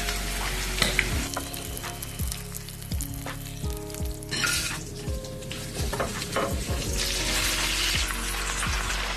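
Hot oil sizzling as food fries in a pan, first boiled eggs and then green peppers and pork belly, with sharp clicks of metal tongs. The sizzle breaks off briefly about four seconds in and is densest near the end, over soft background music.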